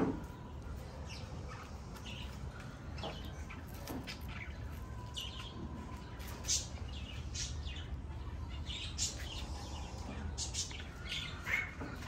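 Caged birds chirping: short, scattered high chirps, several a few seconds apart and some gliding in pitch, over a low steady rumble.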